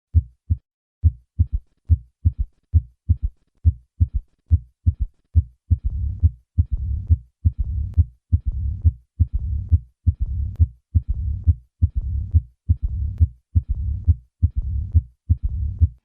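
Heart sounds as heard through a stethoscope, beating steadily at about 80 a minute: first normal first and second heart sounds, then a third heart sound added. From about six seconds in, a low-pitched rumble fills diastole after each beat. This is an Austin Flint murmur, the sign of severe aortic regurgitation with early mitral valve closure.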